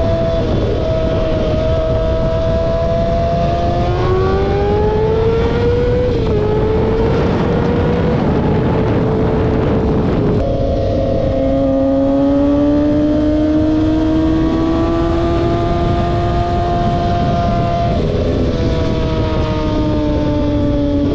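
Car engines revved and held at high revs, their pitch climbing slowly and then holding, over a constant loud rumble of other engines and exhaust noise. About ten seconds in the sound changes abruptly to another engine held high, drifting up in pitch.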